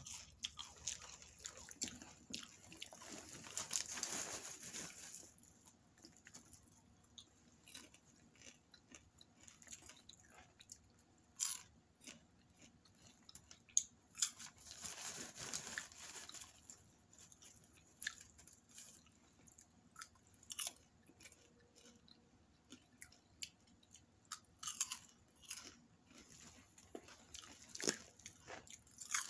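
A person chewing mouthfuls of popcorn close to the microphone: soft crunching with irregular sharp crunches, and no speech.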